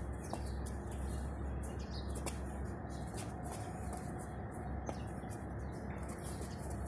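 Small birds chirping in short, irregular calls over a steady low rumble.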